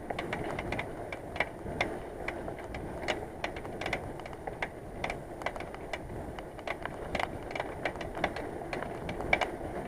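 Bicycle rear hub clicking irregularly, a few ticks a second, over steady road and tyre noise while riding: the sign of a failing rear hub, whose grease had turned to black sludge.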